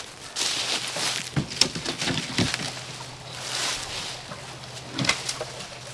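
Scrap boards and structure pieces being handled and dragged: rustling and scraping with several sharp knocks, over a faint steady low hum.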